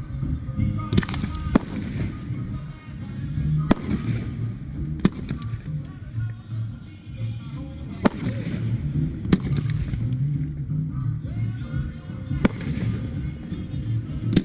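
Fireworks bursting with sharp bangs, about eight at irregular intervals of one to four seconds, over background music playing throughout.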